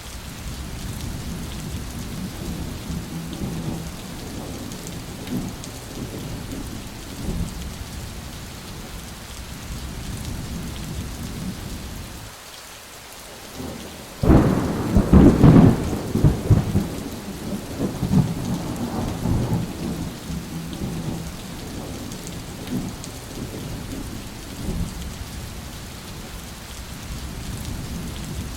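Steady heavy rain with low rolling thunder. About halfway through, after a brief lull, a loud thunderclap cracks suddenly and rumbles away over several seconds.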